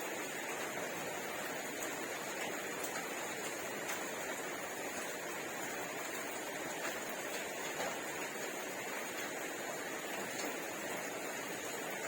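Steady background hiss with a few faint, scattered clicks and smacks of someone eating rice and curry by hand.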